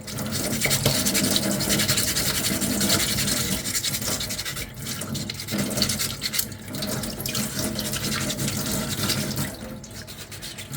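Sandpaper rubbed by hand over a small 3D-printed armour finger piece: a continuous scratchy scrubbing made of quick short strokes, with brief pauses a little before the middle and near the end.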